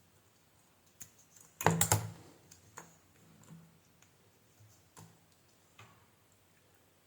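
Small tools and parts handled on a workbench: scattered light clicks and knocks, with a brief burst of sharp clatter about two seconds in.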